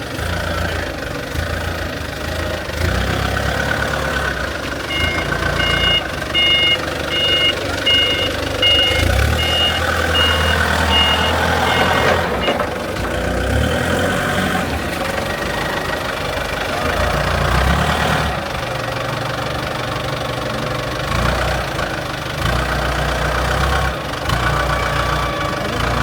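Excavator's diesel engine running with an uneven low rumble. For several seconds in the middle, a travel alarm beeps about twice a second.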